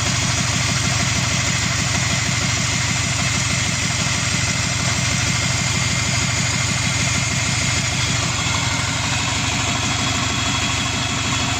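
Subaru Forester SG9's EJ255 2.5-litre turbocharged flat-four engine, out of the car, idling steadily and fully warm after about 20 minutes of running.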